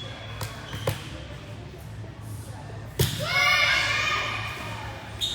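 A volleyball being hit in a gym: two light hits, then a sharp loud hit about three seconds in, each ringing in the hall. Several young voices then yell and cheer together for about two seconds.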